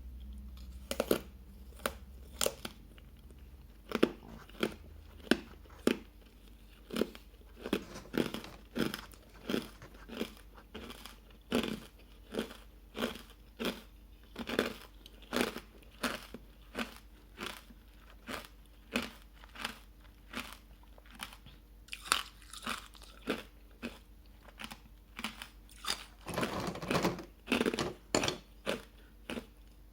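Hard ice being bitten and chewed close to the microphone, matcha-powder-coated, making a steady series of sharp crunches, about one or two a second. The crunches come thicker together near the end.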